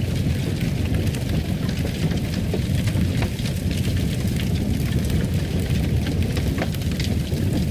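Wood fire crackling: a steady low rumble with scattered small crackles and pops.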